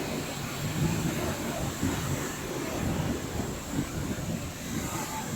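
Steady rushing noise of rain, with a heavy, uneven low rumble underneath.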